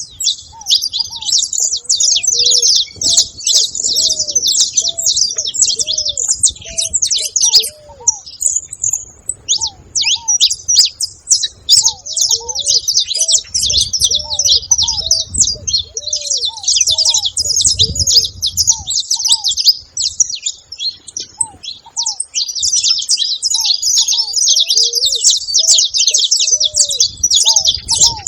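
A flock of saffron finches chirping and trilling together, many birds at once in a dense, unbroken chatter, with low, repeated cooing notes underneath.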